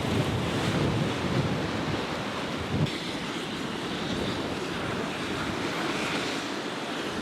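Ocean surf breaking, with wind buffeting the microphone, heaviest and most rumbling in the first few seconds, and a short thump about three seconds in.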